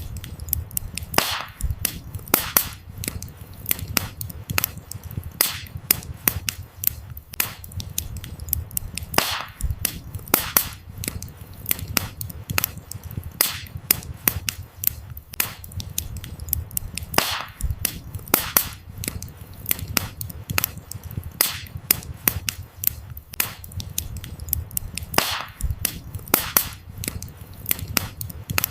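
Wood fire burning: irregular sharp crackles and louder pops of burning firewood over a low, steady rumble of flames.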